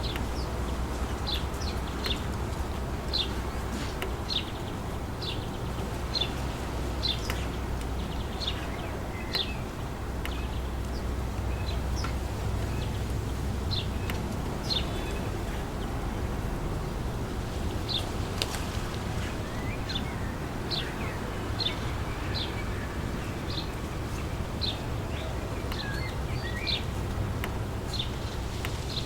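Wind blowing through trees, a steady rushing noise heaviest in the low end, with a bird repeating short high chirps about once or twice a second over it.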